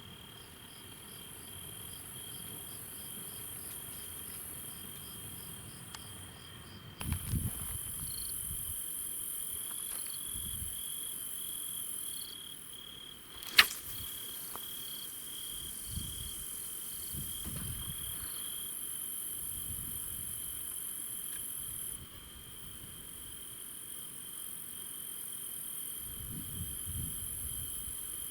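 Crickets trilling steadily, a high pulsing chirr with a fainter insect hiss above it. A single sharp click about halfway through, and a few soft low thumps.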